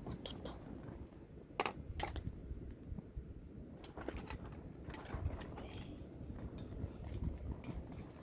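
Low rumbling wind noise with irregular clicks and knocks scattered through it, the two sharpest about one and a half and two seconds in.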